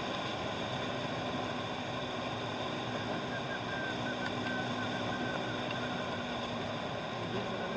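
A motorbike's engine running steadily under constant road noise while riding.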